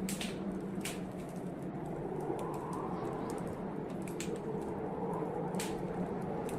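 Wood fire crackling in a fireplace, with sharp irregular pops and snaps, over a steady rushing blizzard wind that swells and eases slightly.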